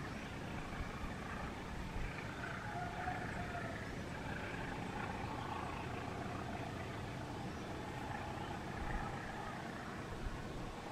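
Passenger train drawing away along the track: a steady rumble of wheels on rail, with the diesel locomotive at the head of the train heard faintly.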